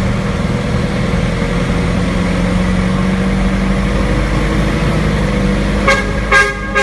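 A motor vehicle's engine running steadily, with two short horn toots near the end.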